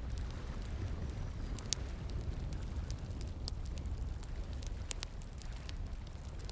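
Wood campfire crackling, with irregular sharp pops and snaps, over a steady low rush of flowing water.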